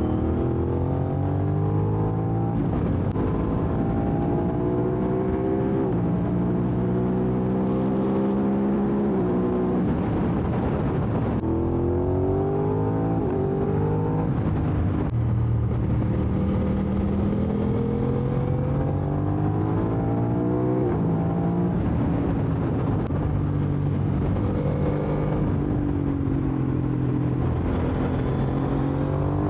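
Aprilia RS660 parallel-twin engine through an SC-Project SC1-R full exhaust, its pitch climbing under acceleration and dropping sharply at each gear change, again and again, while being ridden hard.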